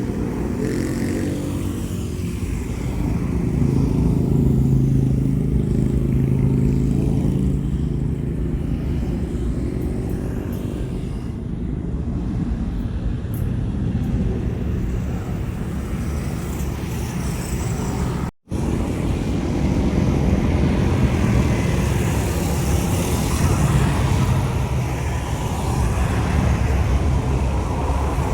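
Low, steady rumble of jet airliner engines heard at a distance during takeoff, mixed with road traffic. About two-thirds of the way through, the sound drops out completely for an instant, then resumes with a rising hiss of engine noise.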